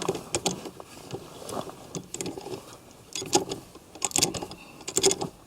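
Metallic clicks and clinks of a wrench and socket tightening lug nuts on a tractor wheel, coming in irregular clusters of quick clicks.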